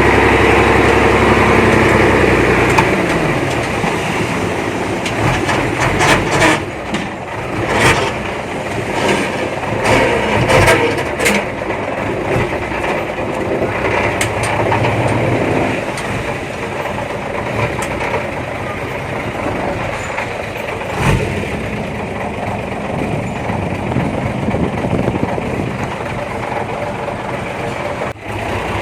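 Heavy diesel earthmoving machinery running, loud and steady for the first couple of seconds, then quieter, with scattered knocks between about six and twelve seconds in.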